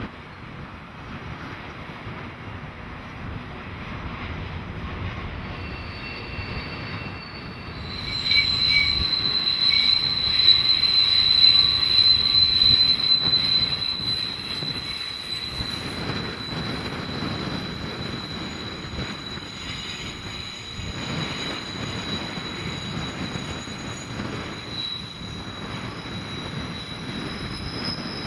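A train passing, its wheels rumbling over the rails. About eight seconds in, a high, steady wheel squeal sets in, loudest for the next several seconds and then fainter.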